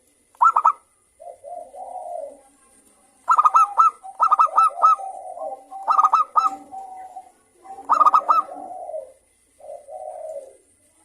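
Zebra doves (perkutut) cooing and answering one another. Clusters of quick, sharp high notes come four times and alternate with lower rolling coos.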